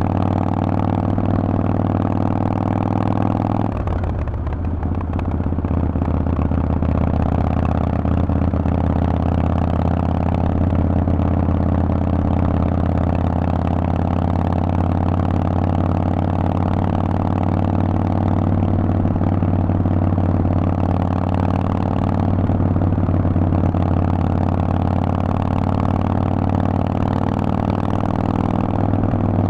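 Harley-Davidson Forty-Eight's air-cooled V-twin running through a Vance & Hines aftermarket exhaust. Its note shifts abruptly about four seconds in, then settles back to a steady run.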